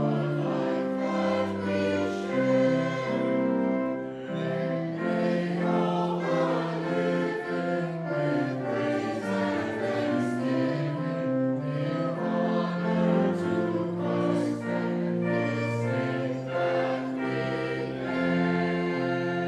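A congregation singing a hymn with instrumental accompaniment, the voices moving from note to note and settling on a long held chord near the end.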